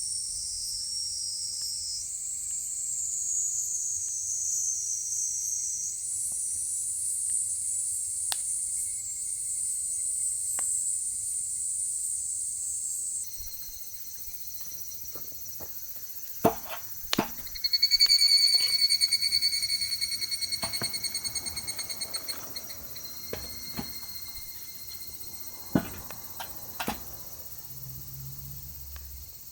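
A steady, high-pitched chorus of night insects chirping. About halfway through, the sound changes abruptly to burning firewood crackling, with a few sharp pops, and a rapid pulsed animal trill a few seconds later.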